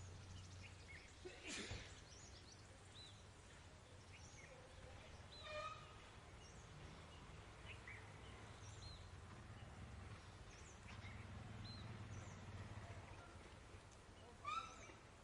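Faint outdoor ambience: scattered short chirps of distant birds over a low steady hum, with a short, louder call near the end.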